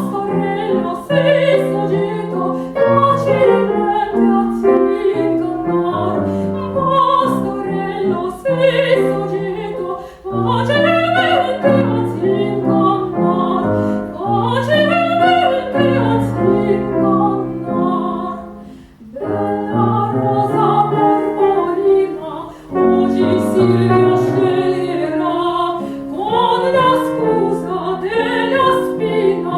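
A woman singing in classical operatic style with vibrato, accompanied by a grand piano, with short breaks in the phrasing about a third and two thirds of the way through.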